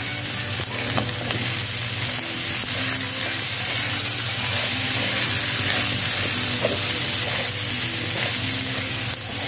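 Diced chicken gizzards and liver sizzling as they fry in a nonstick pan, stirred and scraped with a wooden spatula. The sizzle stays steady throughout.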